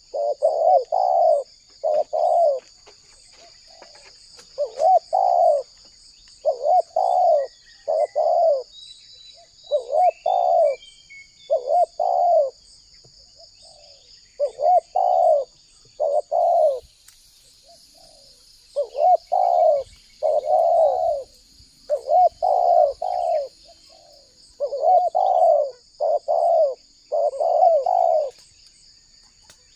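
Spotted dove (tekukur) cooing its song over and over: short groups of two to four low, rolling coos, repeated every second or two with brief pauses. A faint steady high whine runs underneath.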